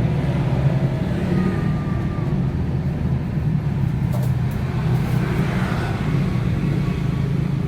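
Steady hum of running motor vehicle engines, like road traffic.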